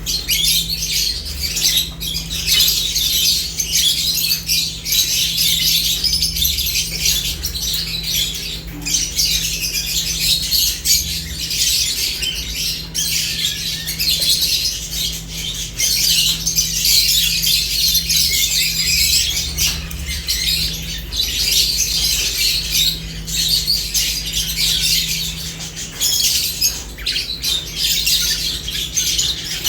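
Lovebirds chirping and squawking in a dense, unbroken chatter, over a low steady hum.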